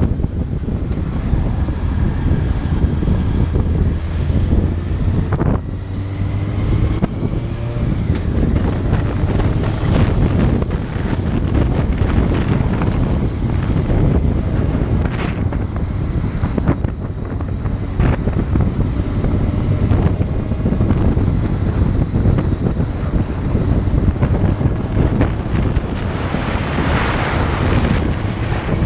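Wind buffeting the microphone on a moving motorcycle, with the bike's engine running steadily underneath; the engine note changes about five and a half seconds in.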